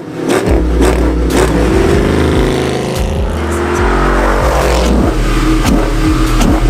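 Dodge Charger SRT8's HEMI V8 engine revving, its pitch rising and falling.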